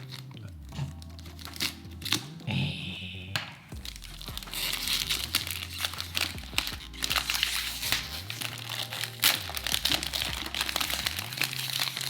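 Plastic wrapping being crinkled and torn off a new perfume box, with dense rustling and small clicks, the rustling heavier in the second half.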